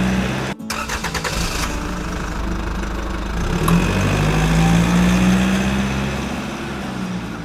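Vehicle engine running with a steady low note, briefly cutting out about half a second in, then swelling again a few seconds later.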